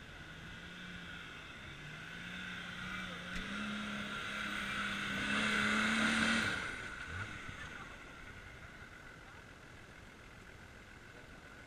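Off-road 4x4's engine revving under load as it climbs a steep dirt slope. Its pitch rises steadily, it is loudest as the vehicle passes close about six seconds in, and then it fades.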